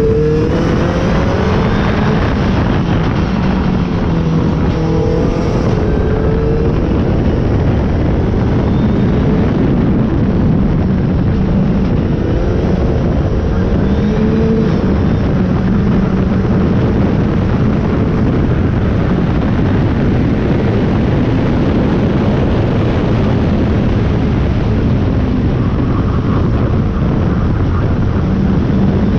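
Toyota Starlet's engine and exhaust running under load, the note rising and falling through revs, over heavy wind and road noise heard from right at the car's bumper.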